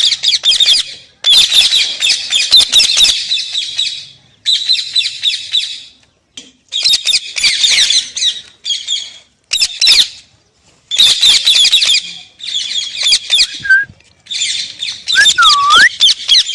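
Pet parrot screeching in repeated harsh bouts of one to three seconds with short gaps between. Near the end a clean whistled note dips and rises.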